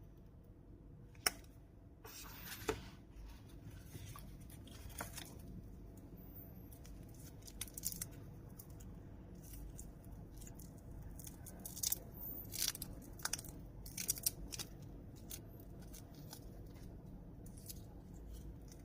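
Handling noises: scattered sharp clicks and short scratchy rustles of small objects being handled, with one sharp click about a second in and a cluster of clicks between about twelve and fifteen seconds.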